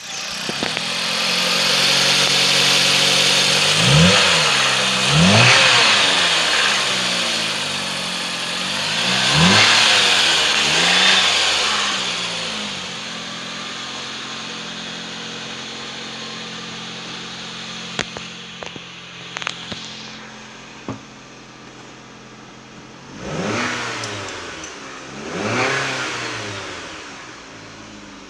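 2011 Dodge Caliber's 2.0-litre inline-four engine running: it is revved and let fall back four times, settles to a steady idle, then is blipped twice more near the end. A few sharp clicks sound around the middle.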